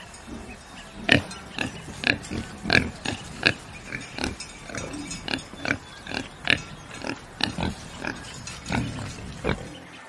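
Pig grunting: a rapid series of short grunts, about two to three a second, starting about a second in.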